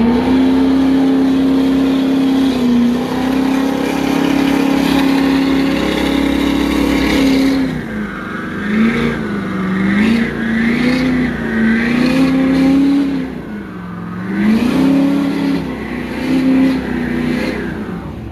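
Pickup truck engines revving hard under load in a tug-of-war. The pitch is held high and steady for about seven seconds, then falls and rises again several times as the throttle is eased and reapplied.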